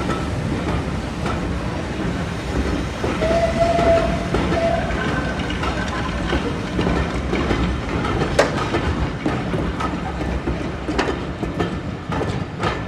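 Passenger coaches of a steam-hauled train rolling past on jointed track, the wheels clicking over the rail joints with scattered sharp clicks. A brief steady high tone sounds about three seconds in.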